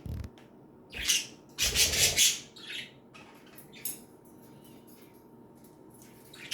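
Pet budgerigars giving short, harsh squawks and chirps in a few separate bursts, the loudest about two seconds in.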